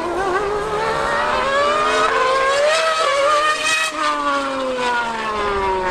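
High-revving racing engine accelerating hard, its pitch climbing for about four seconds, then dropping sharply as it passes and falling away.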